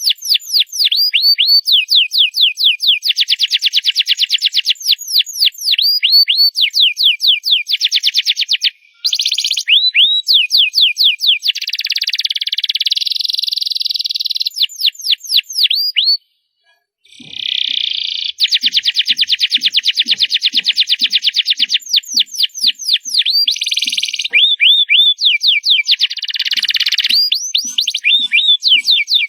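Canary singing loud: long runs of rapid, high repeated notes and trills, broken by a short pause about nine seconds in and a brief silence around sixteen seconds.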